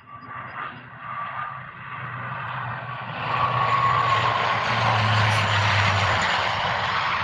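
Jet airliner's engines at takeoff power, a roar with a whine that grows steadily louder over the first three seconds and then holds, as the plane accelerates down the runway on its takeoff roll.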